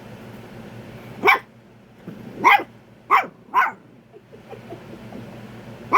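A puppy barking: short sharp barks, four in the first four seconds and another at the very end.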